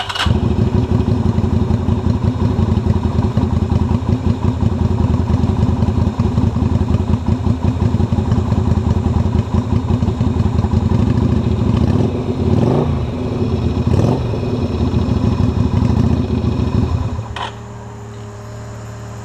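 Yamaha XV250 Virago's starter cranking its V-twin engine on jump-start power, a fast, steady chugging that wavers about two-thirds of the way through and stops suddenly near the end. The engine never catches: a motorcycle with a flat battery failing to start.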